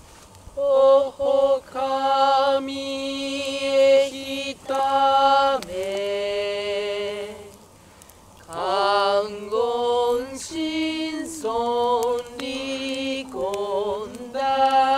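A single voice chanting a Shinto norito prayer in long, held tones that step between a few pitches, with a short pause about halfway through.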